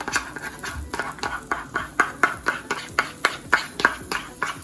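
Metal spoon clicking rhythmically against a bowl as waffle batter is stirred, about four strokes a second.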